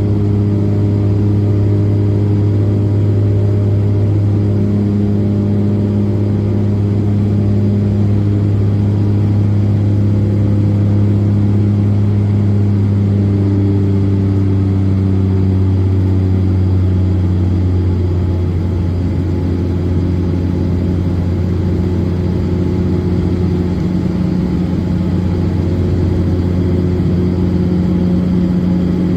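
Cabin drone of a De Havilland Dash 8-400's turboprop engines and six-bladed propellers, a loud, steady low hum made of several tones. About halfway through the tones shift slightly lower and the sound eases a little.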